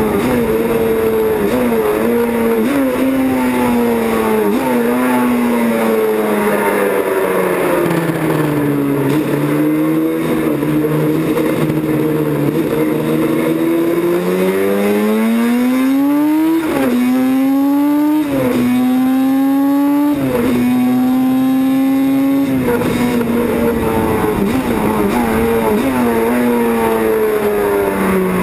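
Yamaha YZR 750 OW31 racing motorcycle's two-stroke four-cylinder engine on track. Its pitch falls with short blips as it slows, then climbs hard through three quick upshifts about two-thirds in, holds steady at speed, and drops away near the end.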